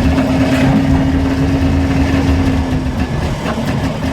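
1958 DKW Auto Union 3=6's 900cc three-cylinder two-stroke engine running under way in second gear, heard from inside the car. It holds a steady note that drops away about three seconds in.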